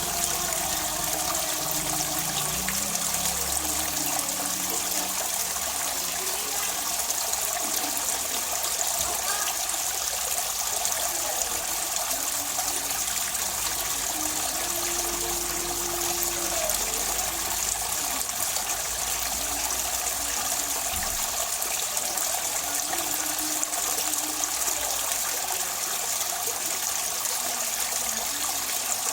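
Running water trickling and splashing steadily without a break, the kind of water sound played to caged songbirds to calm them and get them singing.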